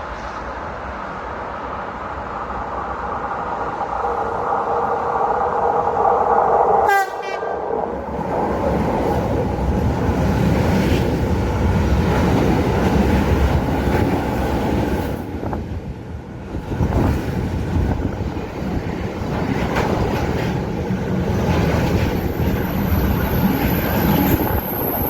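A train approaches and sounds its horn, a held chord of several tones that cuts off sharply about seven seconds in. It then runs past close by with a loud rumble of wheels on rail and repeated knocks as the wheels cross rail joints, and a high whine comes in near the end.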